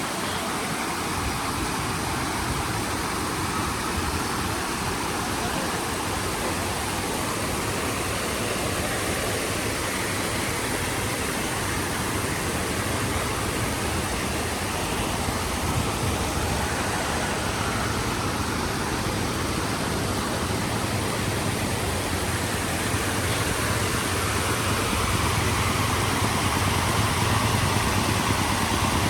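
Steady rushing noise, likely floodwater flowing, with a low engine hum that grows louder through the second half.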